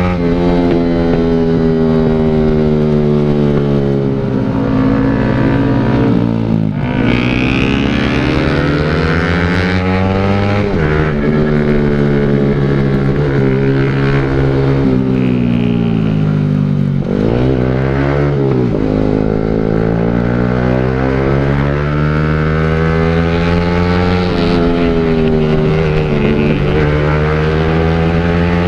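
Motorcycle fitted with an aftermarket exhaust, ridden with the engine pitch rising and falling as the revs go up and come down, with two sharp drops about a quarter and about two thirds of the way in.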